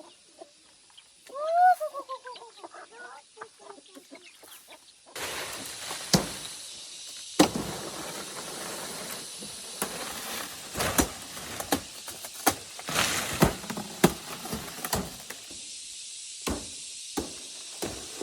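A chicken gives one call that rises then falls, followed by a few short clucks. About five seconds in, a steady rustling hiss starts, broken by repeated sharp knocks and snaps at uneven intervals.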